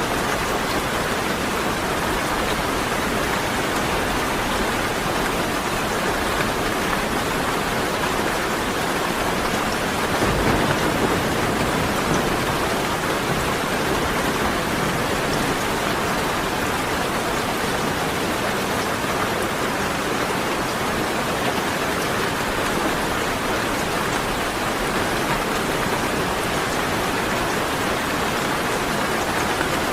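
Steady rain falling, an even dense patter, with a brief louder swell about a third of the way in.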